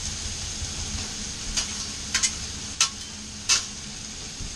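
Potatoes, zucchini and onions sizzling steadily on a hot Blackstone flat-top griddle. A metal spatula clacks sharply against the steel cooktop about five times as the vegetables are stirred.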